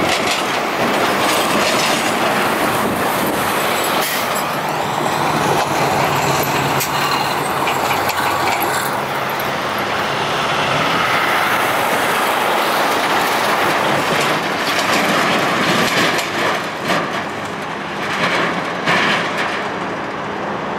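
Freight train rolling on the rails, its wheels clicking over the rail joints in a steady, loud rumble, mixed with road traffic crossing the tracks.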